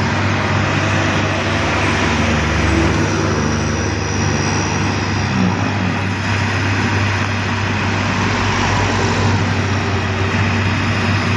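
Heavy diesel engine running steadily and loudly at close range.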